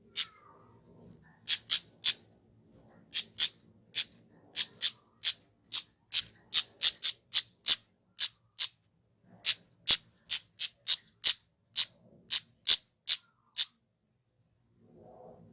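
Kemade, a flowerpecker, giving a long irregular series of short, sharp, high calls, some in quick runs and some spaced out, with brief pauses about two seconds in and near nine seconds. The calls stop shortly before the end.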